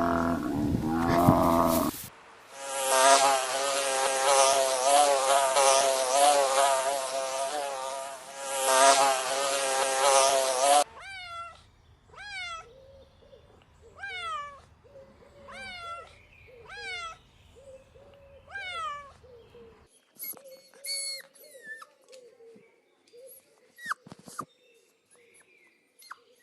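A string of different animal calls, cut one after another. A loud pitched call stops about two seconds in, then a dense buzzing with a wavering pitch. Next comes a short falling call repeated about every second and a half, then scattered short chirps and clicks.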